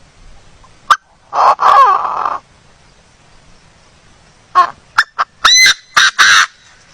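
A bird calling loudly: a click, then one long harsh call about a second and a half in, and a quick run of short calls near the end, several rising in pitch.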